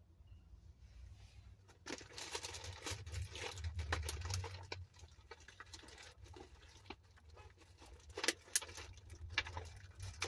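Makeup items being handled close to the microphone: rustling from about two to five seconds in, then a few sharp clicks and taps near the end.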